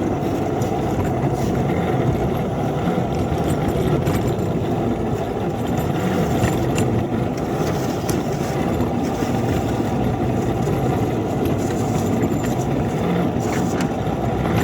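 A small locomotive's engine running steadily under load as it pushes a snowplow through deep snow on the track.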